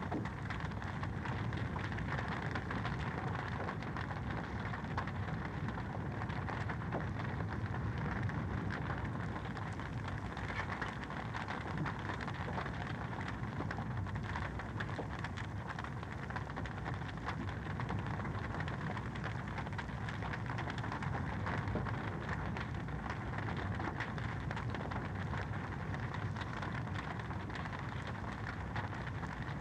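Wood fire crackling steadily: a dense run of small pops and snaps over a continuous hiss, with no single loud crack standing out.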